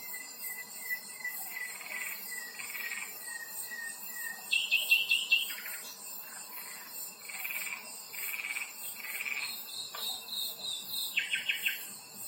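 Outdoor nature ambience: a steady, high-pitched pulsing chorus of insects with birds calling over it. A run of short whistled bird notes plays in the first few seconds, and loud rapid chattering calls come about four and a half seconds in and again near the end.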